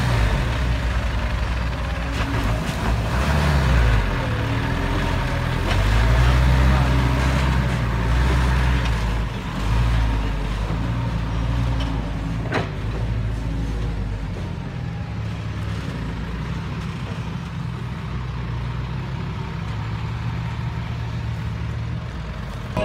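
Heavy diesel engine of a working machine running, its note rising and falling with the load through the first ten seconds, then steadier. A single sharp click about twelve and a half seconds in.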